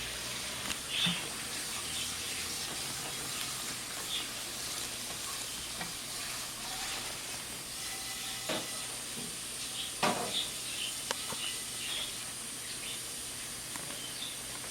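Faint short lovebird chirps and a few light taps over a steady background hiss.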